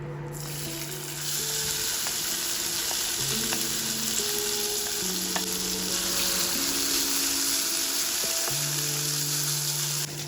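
Chopped cooked chicken frying in hot oil in a pan, a steady loud sizzle with a few light clicks, stopping abruptly near the end. Gentle background music plays under it.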